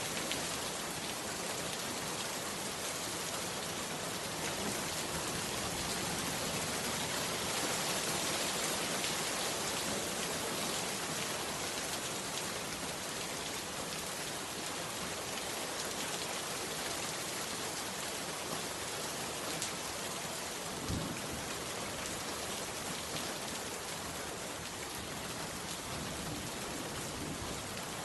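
Heavy rain falling steadily, a constant even hiss. A single brief low thump comes about three-quarters of the way through.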